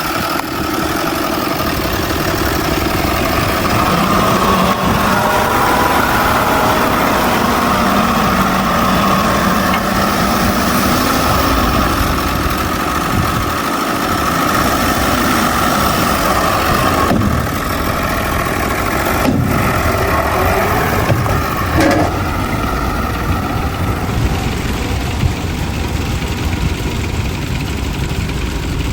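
Heavy diesel earthmoving machinery, a bulldozer working alongside dump trucks, running continuously with the engine note shifting as it works. A few sharp knocks come about two-thirds of the way through.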